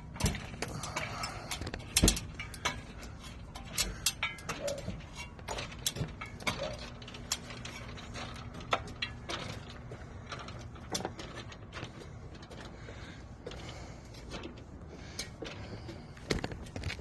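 Irregular knocks and clicks of someone climbing a ladder, with the sharpest knock about two seconds in.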